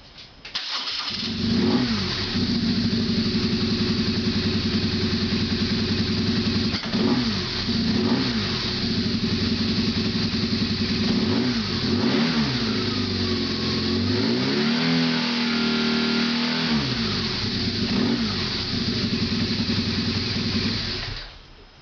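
2006 BMW R1200S boxer twin on its stock exhaust. It is started up, idles with several quick throttle blips and one longer rev held for a couple of seconds midway, then is switched off near the end.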